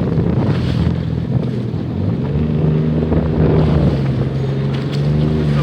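Jet ski engine running under way with water and wind noise; the engine note rises a little past two seconds in and then holds steady.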